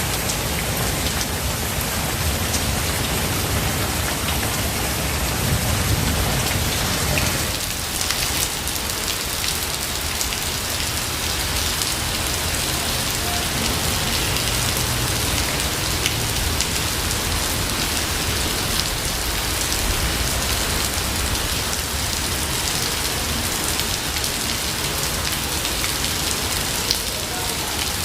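Steady rain falling in a forest, an even hiss of drops, with a brief low rumble swelling about six seconds in.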